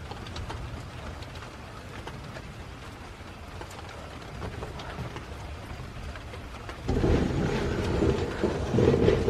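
Steady rain falling, an even hiss. About seven seconds in, a sudden, louder low rumbling noise sets in and carries on.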